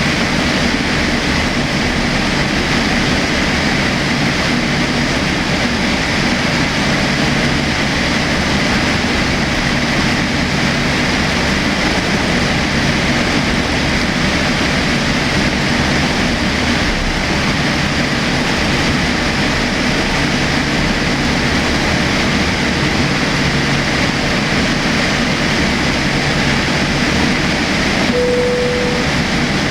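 Steady cabin noise of engines and airflow heard from inside a Boeing 787-8 airliner, even in level throughout. A short single tone sounds for about a second near the end.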